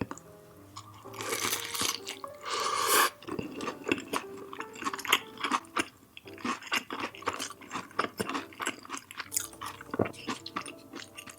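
Close-miked chewing of food, with many irregular wet mouth clicks and smacks. Two louder, hissier bursts come between one and three seconds in.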